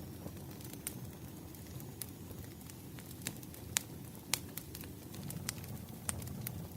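Wood fire burning, with irregular sharp crackles and pops over a low steady rumble. The loudest pops come about halfway through.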